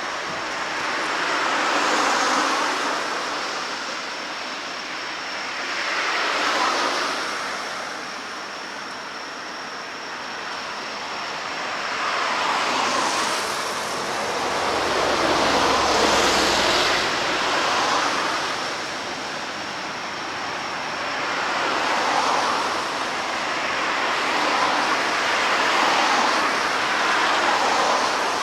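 Harbour water washing against the shore in slow surges that swell and fade every four to five seconds, with a faint steady high tone behind it.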